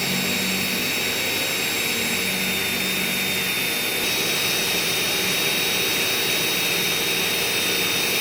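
Electric foot-care drill with dust suction running steadily at speed, a constant high whine over hiss, as used for grinding down a corn or plantar wart.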